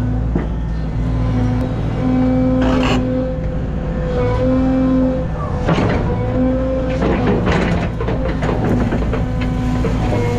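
Rented Cat excavator (trackhoe) running under load, its diesel engine droning steadily while the hydraulic whine rises and drops as the controls are worked. Several sharp knocks and cracks come about 3 seconds in and again in the middle, as the machine handles trees and brush.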